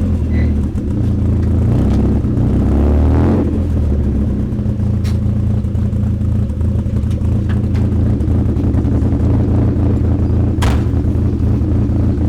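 Mazda Miata's four-cylinder engine running through a freshly welded dual exhaust, revs rising briefly about two to three seconds in, then idling with an uneven beat and a hesitation that sounds cammed. A sharp click near the end.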